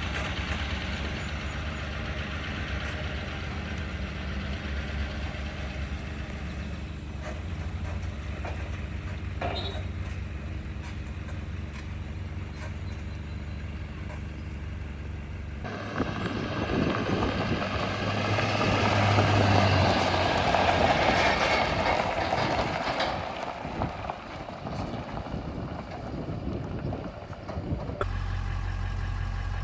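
The 2002 GMC Duramax's 6.6-litre V8 turbodiesel runs steadily in low gear, heard from inside the cab, holding back the truck and loaded trailer on a steep downhill to save the brakes. About halfway through, the sound switches abruptly to a louder, rushing road and wind noise, and near the end it drops back to a steady low hum.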